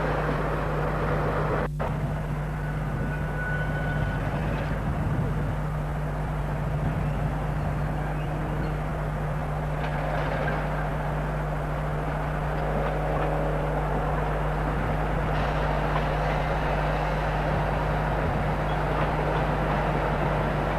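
Railway train running at a station platform, a steady mechanical noise with a constant low hum, broken briefly by a short dropout about two seconds in.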